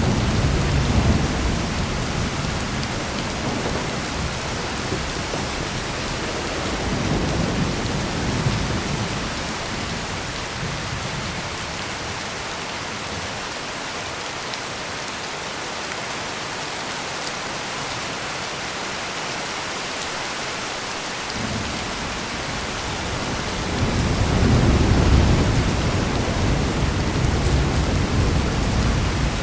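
Heavy rain pouring steadily, with low rolling thunder rumbles: one at the start, a weaker one about seven seconds in, and the loudest near the end.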